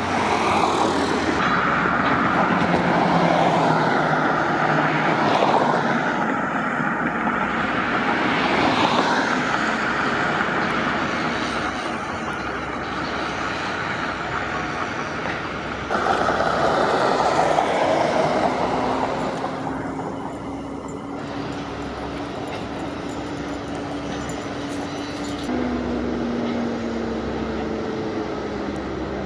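Steady rushing engine and wind noise, with abrupt jumps in sound about 16 and 25 seconds in. A faint steady hum runs through the second half.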